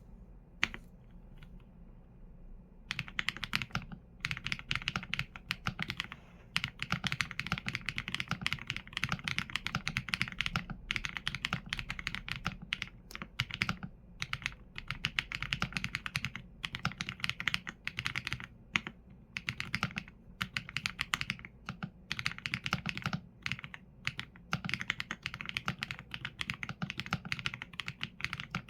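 Mechanical keyboard with Leobog Graywood V4 linear switches and PBT keycaps, typed on steadily: a fast run of key strokes with brief pauses between bursts, after a few scattered presses in the first seconds.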